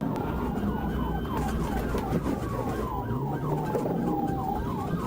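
Police car siren in a fast yelp, a quick falling whoop about two to three times a second. A second, slower siren tone glides down and then back up. A low steady engine and road rumble runs under it.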